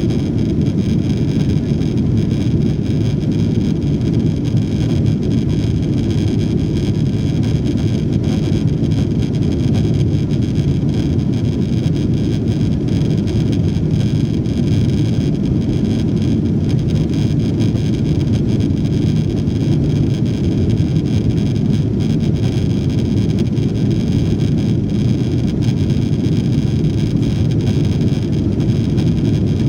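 Boeing 777-200 jet engine noise heard inside the passenger cabin: a steady, loud rumble with faint high steady tones above it and no change in pitch.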